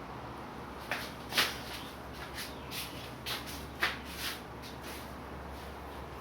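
Chinese calligraphy brush sweeping across paper in a run of short strokes, about seven of them, the loudest about one and a half seconds in.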